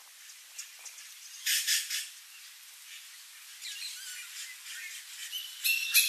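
Wild birds calling: a loud, noisy call about a second and a half in, then a run of short chirps and quick sliding notes, with a short steady whistle near the end.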